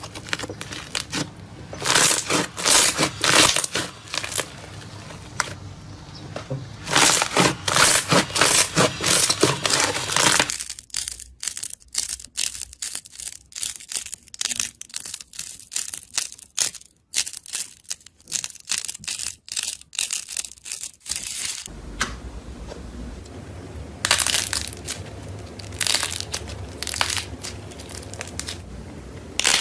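Crunchy material being crushed and squeezed by hand: dense runs of crackles and pops. The texture changes abruptly twice, about ten seconds in and again a little past twenty seconds.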